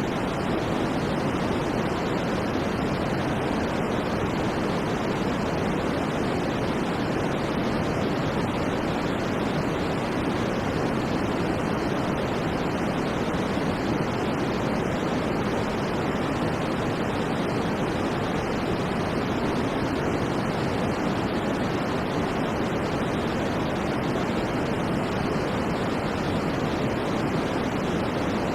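Steady, unchanging white noise played as a sleep aid: an even rushing hiss, fuller in the lows and mids and soft in the high treble.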